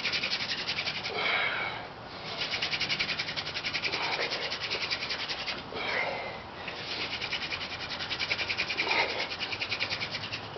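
Sotol spindle spun hard back and forth in a sotol hearthboard's notch in a hand-drill fire, a fast, steady rasping as the wood grinds to make an ember. Heavy breaths from the effort break in about every two seconds.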